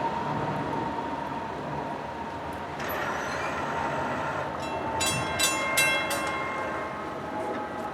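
A train running on the tracks with a steady rumble and a faint steady whine. About five seconds in come four short, high, ringing metallic squeals, typical of wheel flanges or brakes on the rails.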